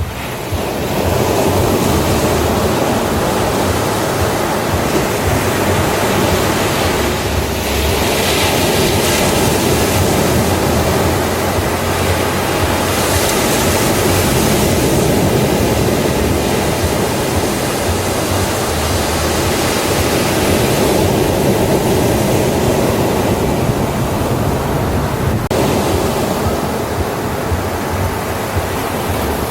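Ocean surf on a beach: a continuous wash of breaking waves, its hiss swelling a couple of times as waves break.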